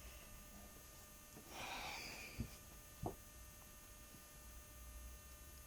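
Quiet room tone with one soft breath-like rush about a second and a half in, followed by two faint clicks.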